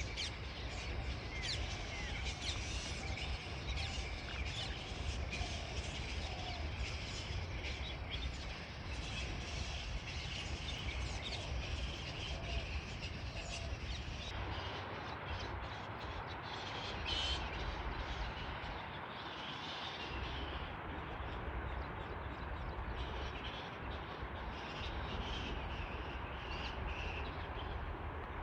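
Forest birds chirping and calling, many short high notes, over a steady low rumble of outdoor background noise.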